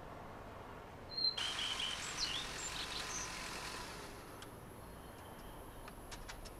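Outdoor bush ambience: a few short bird chirps and whistles over a steady hiss between about one and four seconds in, then quieter with a few faint ticks.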